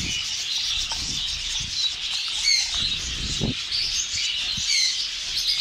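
A dense chorus of caged small birds chirping and calling, with zebra finches' short calls among them. A dull thump about three and a half seconds in.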